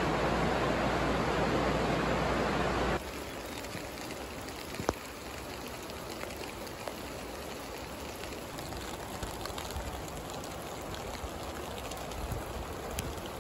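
Steady rain: a dense hiss for the first three seconds, then an abrupt drop to a lighter patter with scattered drop ticks and one sharp tap about five seconds in.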